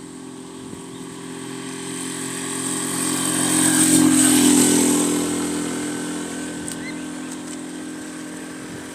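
Motorcycle engine passing by, growing louder to a peak about four seconds in and then fading away.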